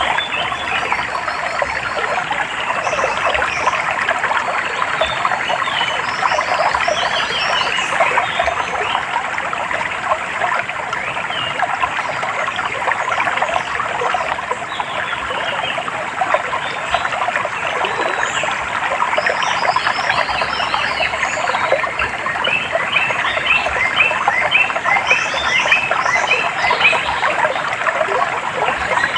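Nature soundscape of running water under a dense, continuous chorus of chirping animal calls, with quick series of high chirps growing busier near the end.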